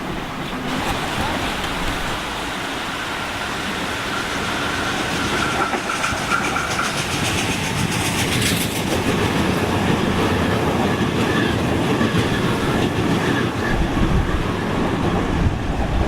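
Electric suburban passenger train running through a station, its wheels clicking over the rail joints amid a steady rumble that slowly grows louder. A faint high whine holds for a few seconds early in the passage.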